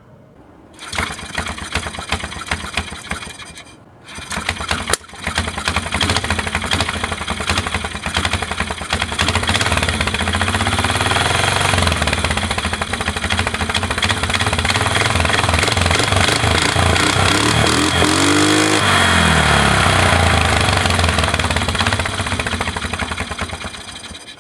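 Polaris Sportsman 335 ATV's single-cylinder four-stroke engine being started and then running, revved up and back down a couple of times.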